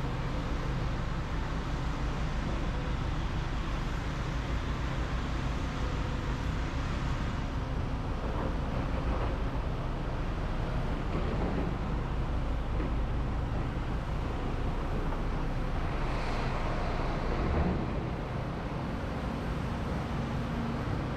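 Diesel engine of heavy construction machinery running steadily, getting briefly louder about three quarters of the way through.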